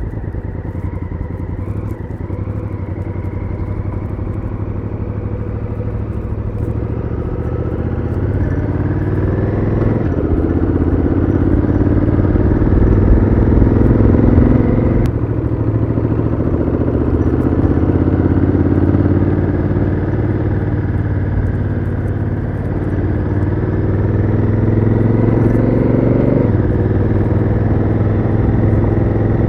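Honda Africa Twin CRF1000L's parallel-twin engine through its stock exhaust, pulling under acceleration. Its pitch climbs and drops sharply three times, about a third of the way in, near halfway and near the end, as the DCT gearbox shifts up.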